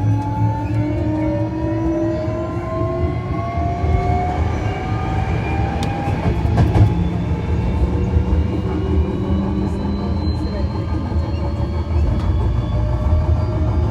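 Hankyu 1300 series train's Toyo IGBT VVVF inverter and traction motors whining in several tones that climb steadily in pitch as the train accelerates, over a steady rumble of wheels on rail with a few sharp clicks midway.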